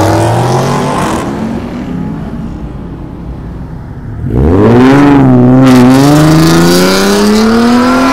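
A car's engine revving as it accelerates away, fading over the first few seconds. About four seconds in, a Nissan 370Z's V6 comes in loud and close, pulling away with its engine note climbing steadily as it accelerates.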